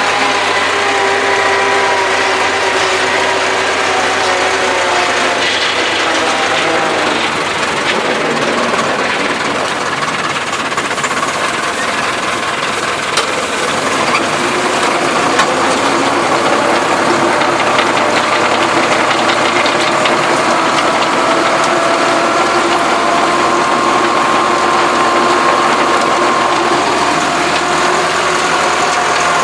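Massey Ferguson tractor's engine running steadily while working a field, its pitch drifting slowly down and back up.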